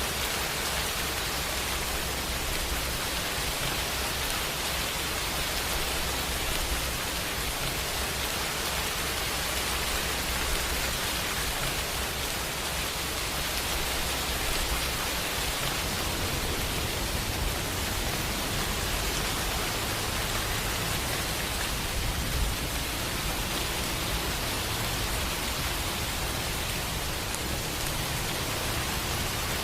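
Steady rain falling, an even hiss, with a low rumble underneath that swells and fades.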